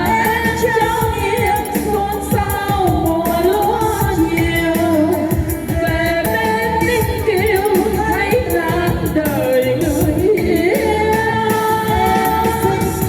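Women singing a Vietnamese song over an amplified backing track with a steady bass beat.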